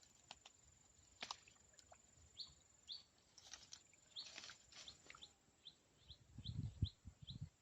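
Faint, repeated short chirps of a small bird, about two a second, over a thin steady high whine that stops partway. A few soft low bumps come near the end.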